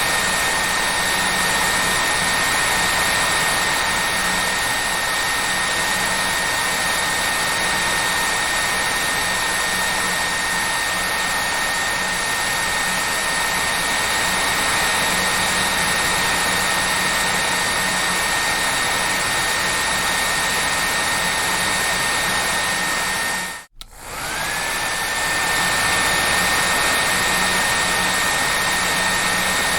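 Hair dryer running steadily: a loud even rush of air with a high motor whine. Late on it cuts out for an instant, and the whine climbs back up to pitch as the sound returns.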